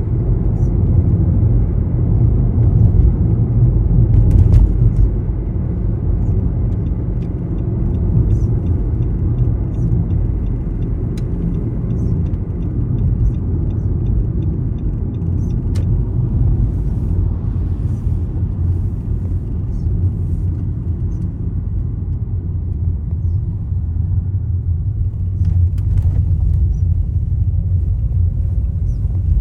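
Steady low rumble of a car driving, with faint, evenly spaced light ticking from about a quarter of the way in to about halfway through.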